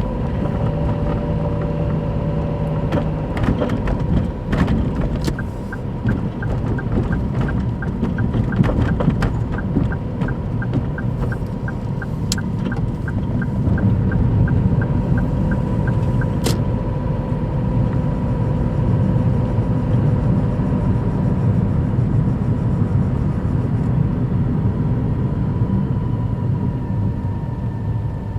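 Daihatsu Move Custom RS (L175S) engine running, a steady low rumble with a thin steady whine; the noise is louder than it should be because the engine mount bushing is torn. A run of regular light ticks, about three a second, goes on from about five seconds in to about sixteen seconds.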